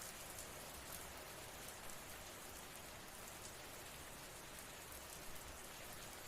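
Steady, faint rain falling, an even hiss with fine pattering of drops.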